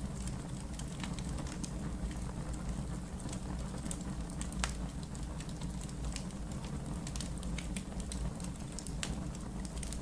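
Wood fire burning in a fireplace: a steady low rumble of flames under irregular sharp crackles and pops from the logs, with a louder pop about halfway through and another near the end.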